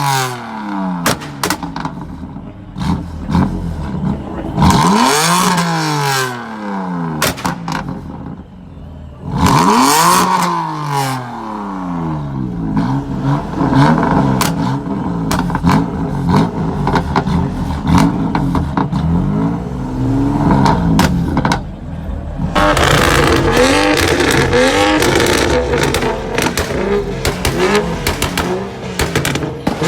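BMW M3/M4 exhaust as the engine is revved again and again, each rev rising and falling in pitch, with pops and crackles from the exhaust between revs. In the last third the revs come quicker and run together.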